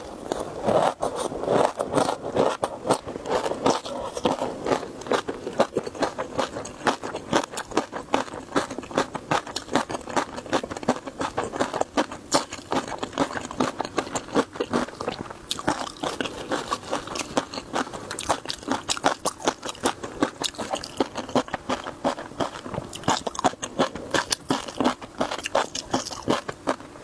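Close-miked crunching and chewing of crunchy seafood: a dense, continuous run of sharp crackling bites.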